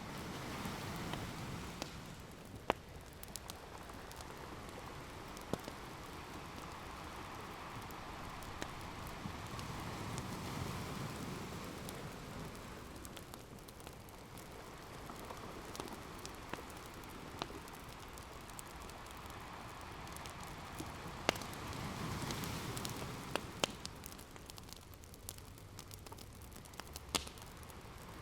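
Ocean waves washing in, the surf swelling about every ten seconds, with the scattered pops and crackles of an open wood fire.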